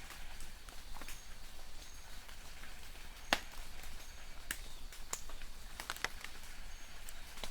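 Light rain falling in a forest: a steady hiss with scattered drops landing as sharp ticks, the loudest about three seconds in. A distant bird gives short, faint, high chirps every second or so.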